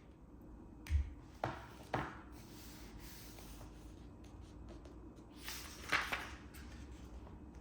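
Small handling sounds: a dull thump about a second in, two light clicks soon after, and a brief rubbing swish near six seconds.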